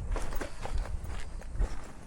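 Footsteps of a person walking, a short sharp step sound several times a second.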